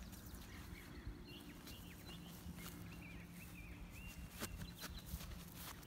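Quiet outdoor background: faint, short bird chirps over a low steady hum.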